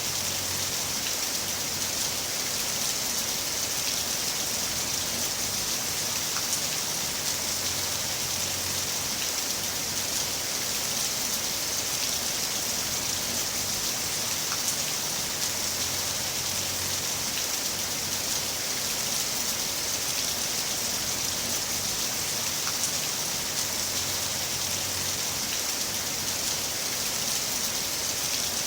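Heavy rain falling steadily: a dense, even hiss with scattered ticks of individual drops. A faint low rumble swells and fades about every eight seconds.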